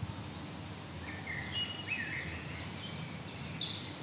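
Woodland birds chirping and calling: scattered short high notes, the loudest a quick falling call about three and a half seconds in, over a steady low outdoor background noise.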